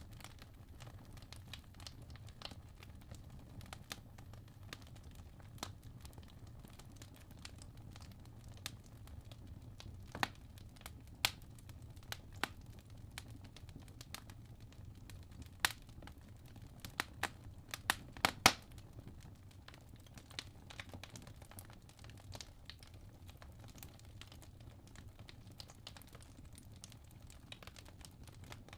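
Wood logs burning in a fireplace, crackling with scattered sharp pops that bunch up around the middle, over a low steady rumble.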